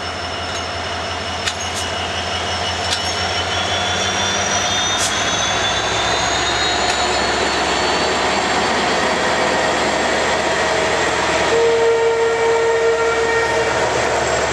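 Express train running along the track, its noise growing a little louder, with a few sharp clicks and a slowly rising high whine. Near the end the M11 diesel locomotive's horn sounds one steady blast of about two seconds.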